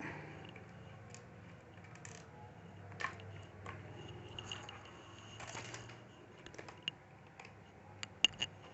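Small scattered clicks and taps of a screwdriver, small screws and plastic laptop casing being handled while the laptop is unscrewed, with a sharp click about eight seconds in. A low hum sits underneath and fades about six seconds in.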